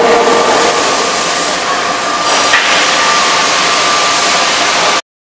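Electro-hydraulic die forging hammer: a loud steady noise with a faint steady tone, and one sharp blow about two and a half seconds in. The ring of a heavier blow just before fades within the first second.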